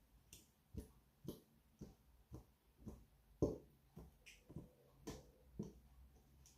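A spoon knocking against a pan while stirring the pasta and sauce: faint, regular knocks about twice a second, one a little louder about three and a half seconds in.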